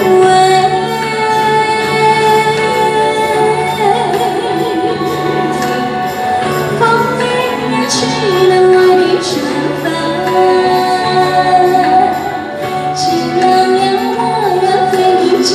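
A singer performing a melodic song over accompaniment with a steady low beat.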